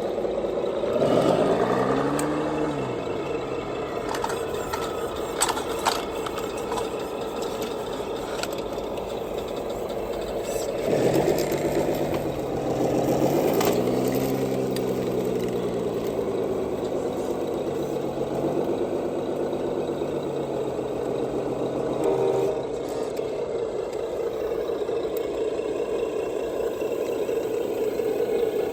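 Radio-controlled scale truck running: a steady whine with two rev-like swells that rise and fall in pitch, about a second in and again about eleven seconds in, and a few sharp clicks and rattles about five seconds in.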